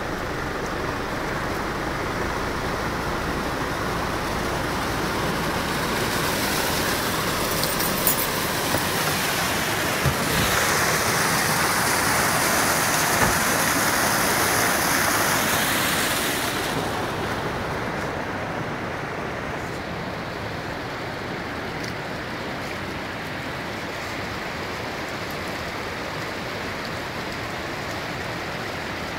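A vehicle driving through floodwater: a steady rush of water, with the splashing spray hiss swelling loudly for about ten seconds in the middle before dying back to the duller rush.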